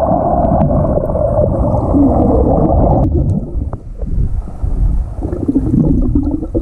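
Muffled underwater rumble and gurgling picked up by a submerged phone microphone, with the higher sounds cut off and a few faint clicks.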